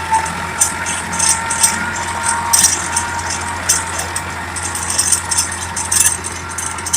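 Massey Ferguson 5245 tractor's three-cylinder diesel engine running steadily, with irregular rattling clicks over it.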